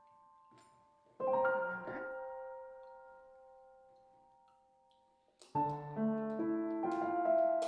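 Soft background piano music: a chord struck about a second in rings on and fades away, then a new phrase of notes begins about five and a half seconds in.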